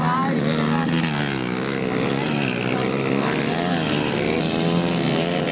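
Motocross bike engines revving, their pitch rising and falling over and over, with more than one engine heard at once.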